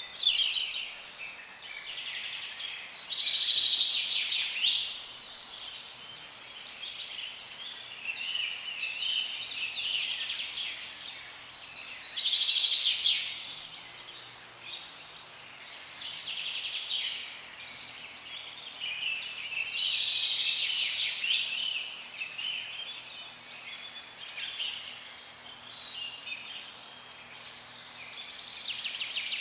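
A chorus of many small birds chirping and twittering together, swelling louder and fading back every few seconds, with a thin high note repeating about every two seconds.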